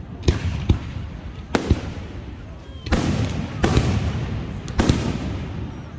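Fireworks exploding: about six sharp bangs spread over the seconds, each followed by a rumbling, crackling tail.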